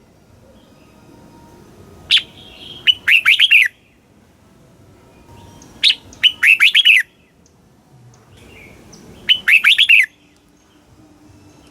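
Red-whiskered bulbul singing three loud song phrases a few seconds apart. Each phrase is a sharp opening note followed by a quick run of falling, whistled notes.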